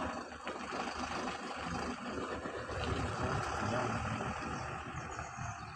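An engine running steadily, with a fast, even low rumble under a wide hiss.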